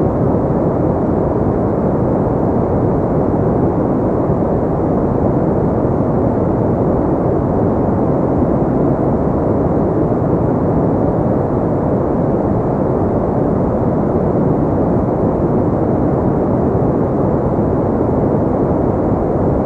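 Steady synthetic pink noise: an even, unchanging rushing hiss weighted toward the low end, with little treble.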